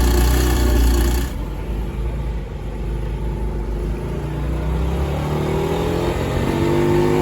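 Car engine running loudly, then dropping away sharply about a second in. From about four seconds in the engine note climbs steadily as the car accelerates.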